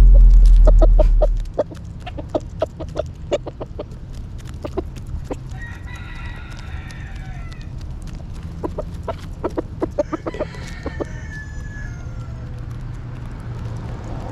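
Chickens clucking in quick runs of short notes, with a rooster crowing about six seconds in and another longer call near ten seconds. A loud low rumble cuts off about a second in.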